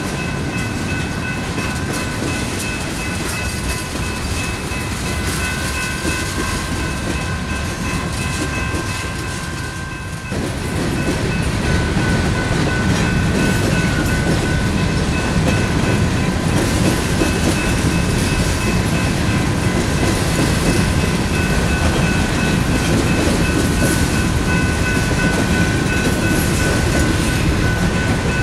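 Freight cars (boxcars, a tank car and covered hoppers) rolling past on the rails: a steady rumble and clatter of wheels on track, with a few faint, steady high ringing tones over it. The rumble gets louder about ten seconds in.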